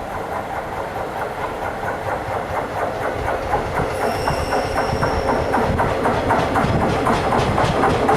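A passenger train running through the station, its wheels clattering rhythmically over the rail joints and growing steadily louder, with a faint high whine around the middle.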